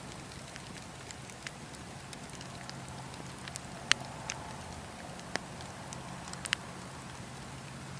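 Campfire of burning wood crackling, with scattered sharp pops, the loudest a little under four seconds in and a quick pair about two and a half seconds later, over a steady low rumble of the flames.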